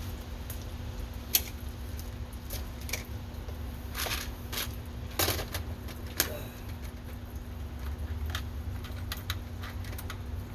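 Repeated clicks and handling noise from a pen-style fiber-optic connector cleaner being pushed over and over on a connector end, over a steady low hum.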